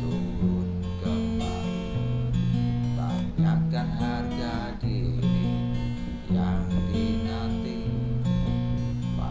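Music: acoustic guitar strumming chords, with bass notes changing every second or so.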